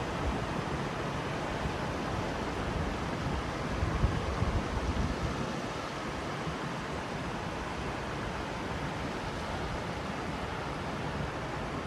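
Ocean surf washing continuously, with a wave swelling and breaking about four seconds in.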